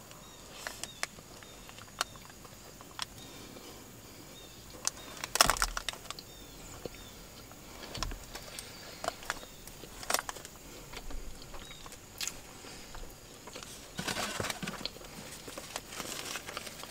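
Quiet close-up eating sounds: scattered soft mouth clicks and chewing noises, with a louder click or knock about five and a half seconds in and a short stretch of soft rustling around fourteen seconds.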